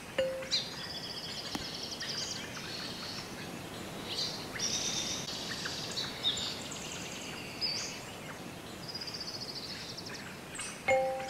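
Songbirds singing, with quick trilled phrases and high chirps repeating over a faint steady hiss. A chimed mallet note fades out at the start, and chimed music starts again near the end.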